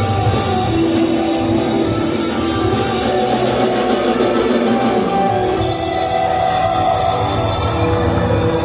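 Rock band playing live: distorted electric guitar and drum kit.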